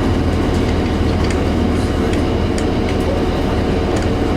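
Inside the cabin of a 2002 Blue Bird 40-ft transit bus, its Cummins ISC inline-six diesel engine runs steadily under a constant low hum and road noise. A few faint light rattles come through.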